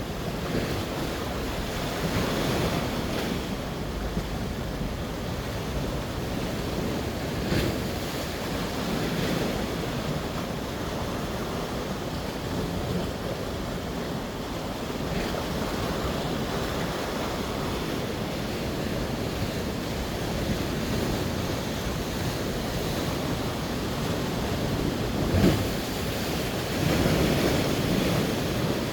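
Sea surf washing in, swelling louder every few seconds, with wind rumbling on the microphone.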